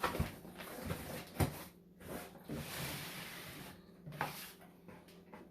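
Packaging being opened and handled by hand: rustling with a few sharp knocks and clicks, the loudest about a second and a half in.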